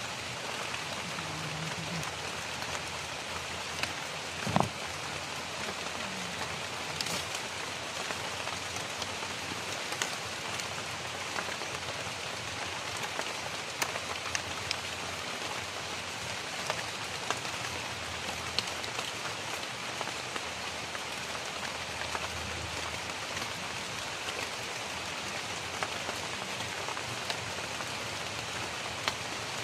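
Steady rain falling on dense leaves: an even hiss with scattered small drop ticks. One brief, louder knock comes about four and a half seconds in.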